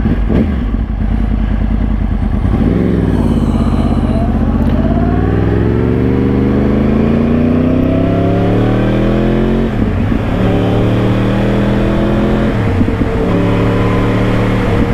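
2013 Yamaha R1's crossplane 'big bang' inline-four engine pulling away and accelerating, its pitch climbing steadily for several seconds. It drops sharply at an upshift about ten seconds in and again a couple of seconds later, then runs steadily at cruise.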